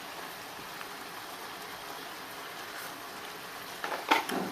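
Braised chicken and pineapple sauce bubbling at a steady boil in a pot. Near the end comes a short, sharp, louder sound.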